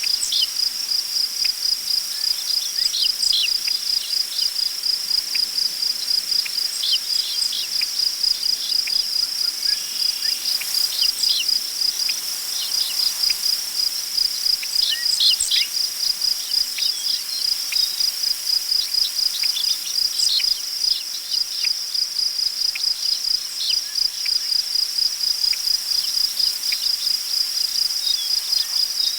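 Crickets chirping in an even, fast, steady rhythm, with brief bird chirps scattered through.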